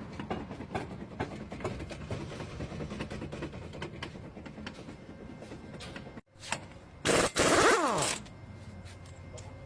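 Car suspension noise: irregular knocks and rattles over a low running rumble. After a cut, a loud creak slides down in pitch for about a second.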